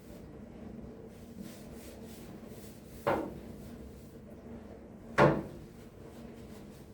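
Two sharp knocks of a cabinet being shut, about two seconds apart, the second louder, over faint handling noise.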